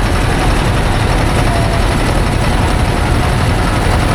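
Heavy engine running steadily, a constant low drone.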